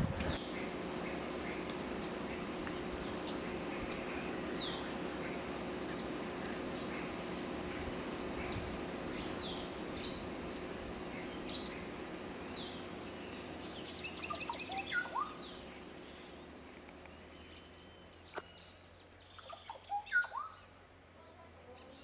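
Birds calling: scattered short chirps and whistles, coming more often after about fourteen seconds, over a steady high-pitched drone and a low background hum that fades partway through.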